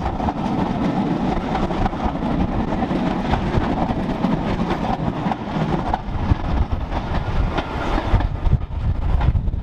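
Steam-hauled passenger train passing close by behind BR Standard Class 4 2-6-4 tank locomotive 80080, the coaches' wheels rumbling and clattering steadily over the rails.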